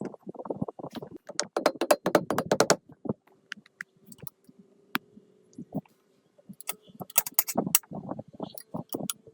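Hand work on metal parts: a run of clicks, taps and short scrapes, dropping away about three seconds in to a faint steady hum with a few sharp clicks, then clicking and scraping again near the end.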